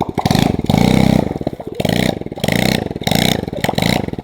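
Small single-cylinder four-stroke engine of a cheap 110 cc pit bike revved in about three or four short surges, falling back to a lumpy low-rev chug between them.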